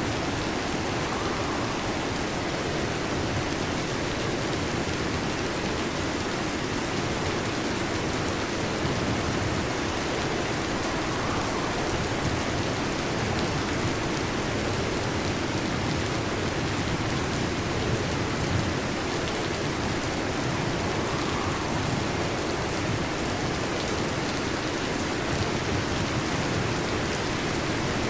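Heavy rain falling steadily on a metal roof, an even, dense patter with no let-up.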